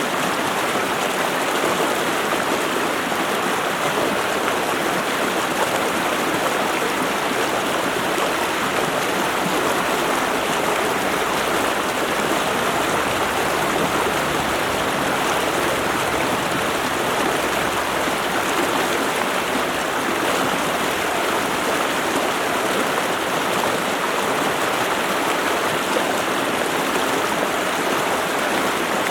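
Stream water rushing steadily over rocks: an even, unbroken rush.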